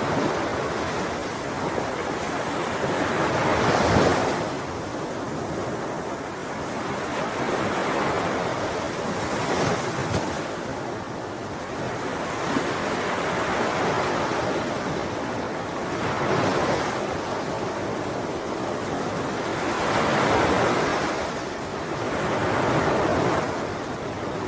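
Sea waves breaking and washing on a shore, a continuous surf rush that swells with each wave about every three to six seconds, loudest about four seconds in.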